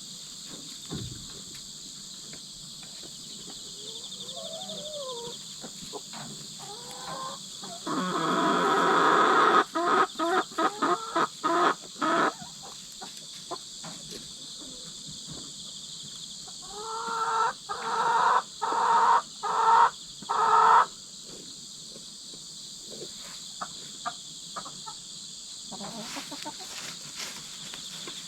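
Hens squawking loudly in two bouts of rapid, repeated shrieking calls, the screams of a pecking-order dispute between newly merged hens. Insects chirp steadily in the background.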